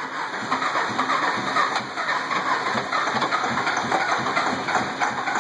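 Ford V10 truck engine with a thrown rod and a hole in its block cranking over on the starter, turning freely rather than seized. It makes a steady, fast, pulsing churn.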